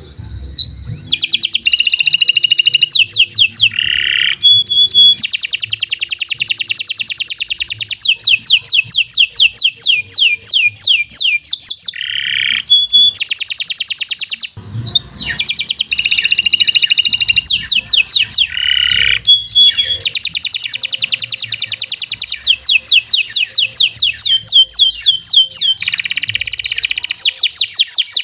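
Domestic canary singing a long song made of fast trills of rapidly repeated high notes, one phrase running straight into the next, broken only by brief pauses about four seconds in and near the middle.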